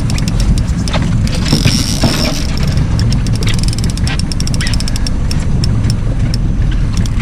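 Boat motor running with a steady low rumble, with many sharp clicks over it and a brief high whir about two seconds in.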